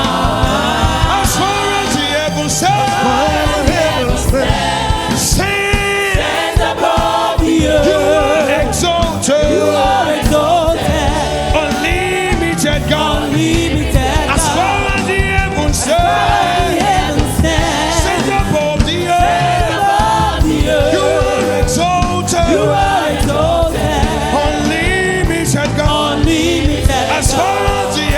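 Gospel choir singing with a live band and a steady beat.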